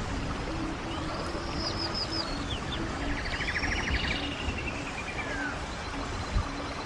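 Running stream water as a steady rush, with birds singing over it: high arching whistled notes about a second in, then a rapid trill around three seconds in. A brief low thump near the end.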